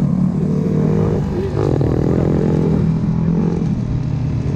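Dirt bike engine running steadily near the microphone, its pitch wavering a little without a full rev.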